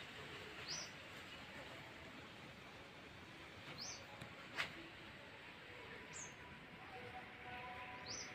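A bird chirping faintly: a short, high, falling chirp every two to three seconds over a low background hiss. One sharp click a little past the middle.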